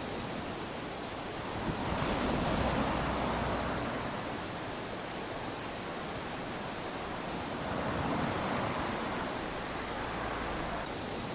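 Small waves washing up onto a sandy beach, a steady hiss of surf that swells twice, about two seconds in and again around eight seconds in.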